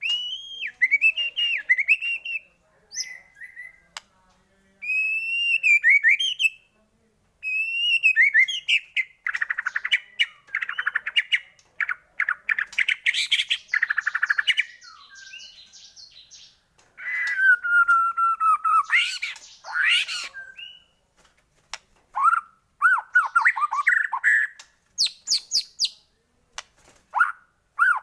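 White-rumped shama (murai batu) singing a varied, continuous song. Clear gliding whistles alternate with fast rattling trills and harsher chattering phrases, broken by short pauses.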